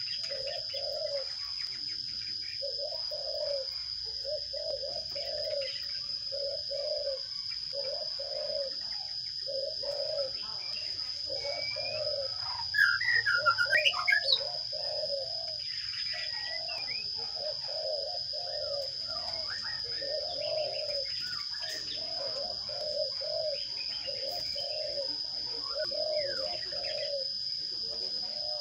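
A dove cooing over and over in the background while sparrows chirp, with a louder flurry of chirps about 13 seconds in, all over a steady high-pitched whine.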